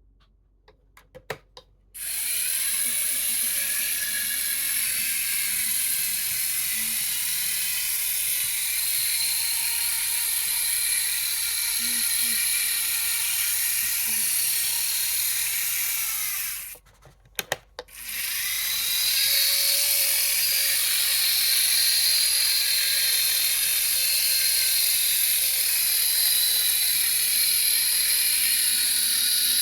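Model Shay geared locomotive running, its motor and gear train whirring steadily with a fine ratcheting clatter. It stops about 16 seconds in, with a few clicks, then runs again. The owner judges it to be running well after adjustment.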